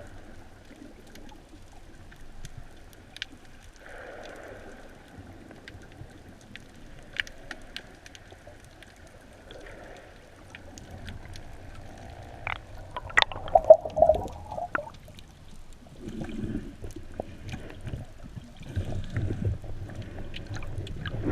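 Underwater ambience picked up by a diving camera: a low steady rumble with scattered sharp clicks and crackles, and a louder cluster of clicks and knocks about thirteen to fifteen seconds in.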